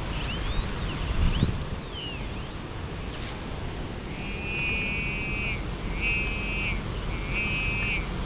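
XP Deus metal detector sounding on a target: a few short tones that rise and fall as the coil sweeps, then three held high beeps of about a second and a half each, over steady wind rumble on the microphone.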